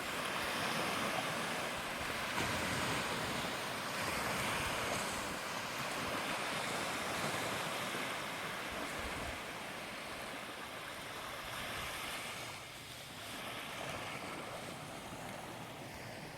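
Ocean surf washing up on a beach: a steady rush of waves that eases off somewhat in the second half, with wind on the microphone.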